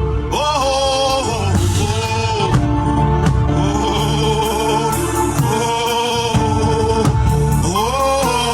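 Gospel worship music: voices singing long, sliding held notes over a steady bass accompaniment.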